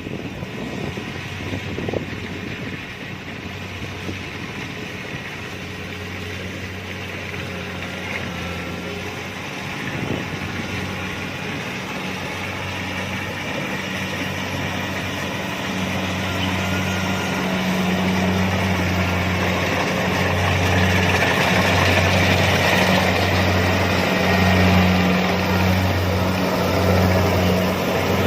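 Kubota DC-70 Plus rice combine harvester running, its diesel engine and machinery giving a steady hum with a wide mechanical rattle. It grows gradually louder, and from about halfway the low hum pulses.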